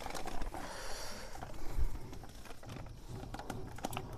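Irregular light clicks and knocks of metal motorcycle engine parts and tools being handled, with a brief hiss about half a second in.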